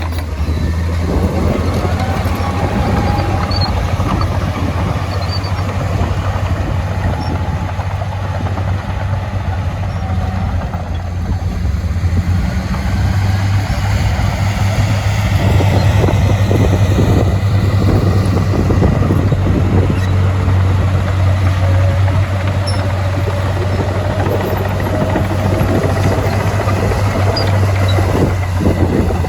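Heavy diesel engine of earthmoving equipment running steadily under load, with a deep steady drone and frequent rattles and clanks.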